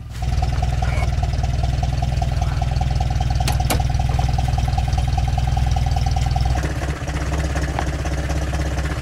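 UAZ off-roader's engine idling steadily, a low hum with a higher whine on top; the sound shifts to a lower tone about two-thirds of the way through.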